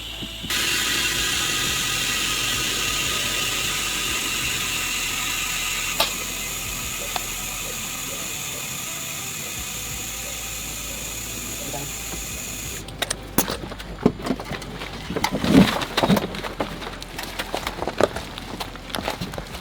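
A machine runs steadily with a whine of several fixed pitches, starting about half a second in and cutting off near the end, followed by irregular knocks and clatter.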